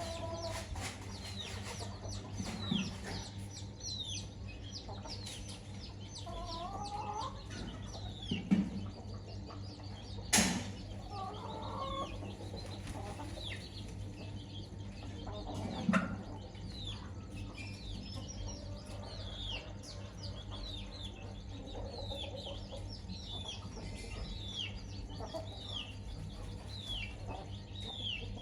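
Chicks peeping steadily in short, falling peeps while a hen clucks now and then. A few sharp thumps stand out, the loudest about eight and ten seconds in, over a steady low hum.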